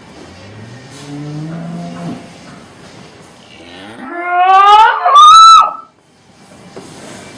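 A cow mooing: first a low moo that rises a little, then a much louder call that climbs steeply in pitch and breaks into a high squeal before cutting off suddenly.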